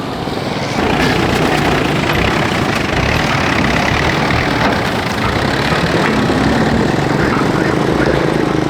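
A motor running steadily and loudly, getting louder about a second in.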